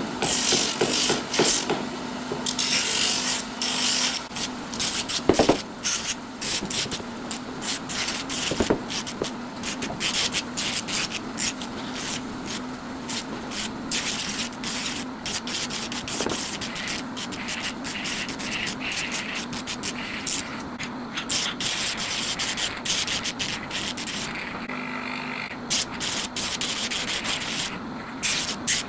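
Wooden carving being hand-sanded: quick, repeated rubbing strokes of abrasive on wood, over a steady low hum.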